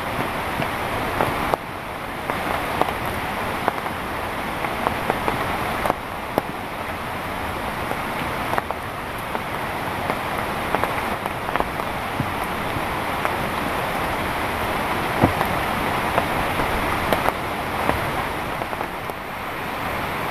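Heavy rain falling steadily, with many sharp drop impacts pattering on a surface close by. The overall level jumps abruptly several times.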